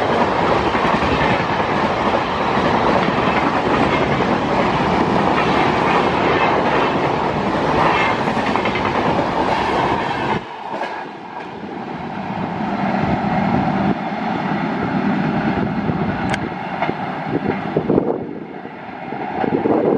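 Fast Indian express train passing close by, its wheels clattering rhythmically over the rail joints. About halfway through the sound drops abruptly, leaving a quieter rumble with a few sharp clicks.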